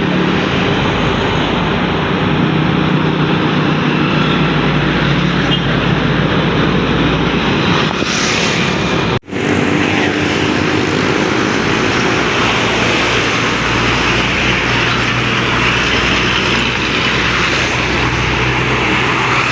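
Road traffic on a highway: diesel engines of trucks running, with tyre and wind noise, loud and steady. There is a brief break about nine seconds in where the recording cuts.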